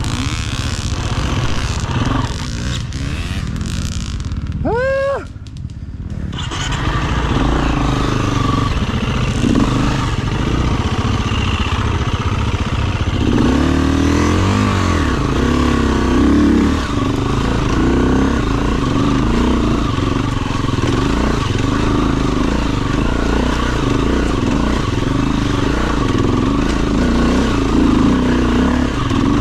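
Enduro dirt bike engine running under riding load, its pitch rising and falling with the throttle; the sound dips briefly about five seconds in.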